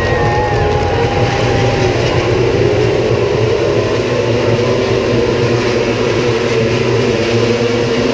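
Several racing motorcycles running together on the circuit: a steady, loud engine drone with several pitches wavering at once.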